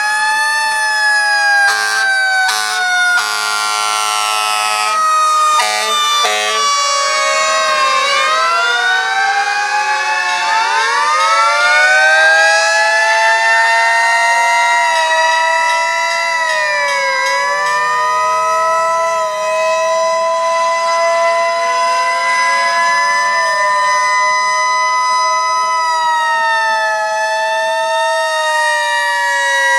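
Several antique fire truck sirens sounding together, overlapping as each winds slowly up and down in pitch, with one held near a steady pitch for a long stretch midway. In the first few seconds a run of short horn blasts sounds over them.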